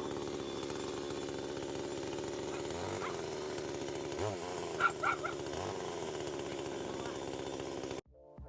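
A small engine running steadily at a constant speed, like a chainsaw or brush cutter. A dog barks a few times about five seconds in.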